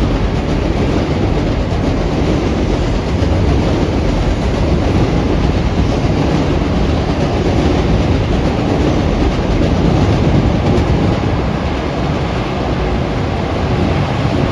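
A train running close by: a loud, steady rumble of wheels on rails.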